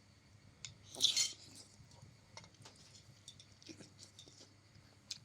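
Close-up eating sounds: scattered small clicks and mouth noises of someone eating noodles, with one short hissy burst about a second in.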